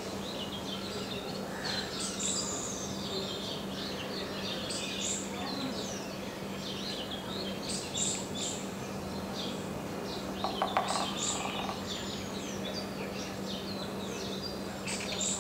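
Black-rumped flameback woodpecker pecking at a tree trunk, a quick burst of taps about two-thirds of the way through, over steady chirping and whistling of birds. A faint steady hum runs underneath.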